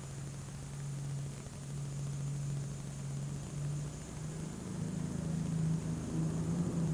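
Super stock pulling tractor's turbocharged diesel engine running hard at a steady pitch, then climbing higher in pitch and getting louder over the last couple of seconds.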